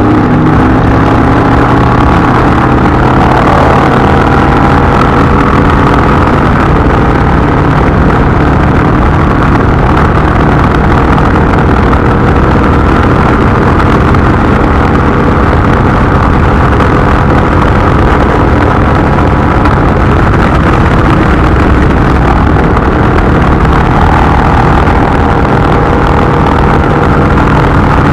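Indian V-twin motorcycle engine running steadily on the move, mixed with the rush of wind and road noise.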